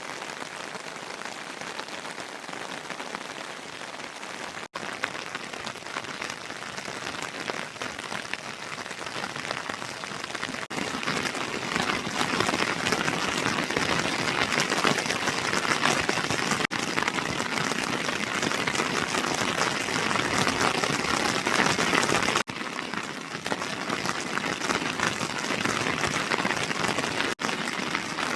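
Heavy rain falling in a steady hiss, growing louder about eleven seconds in and easing a little near the end, broken by a few momentary dropouts.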